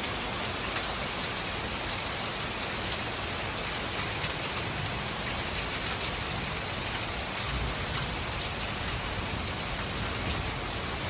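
Steady, dense rain pouring down in a thunderstorm, with a brief low rumble about two-thirds of the way through.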